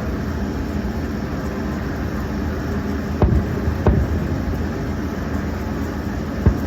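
Steady low rumble of passing road traffic, broken by three sharp bangs of distant fireworks: about three seconds in, a second after that, and near the end.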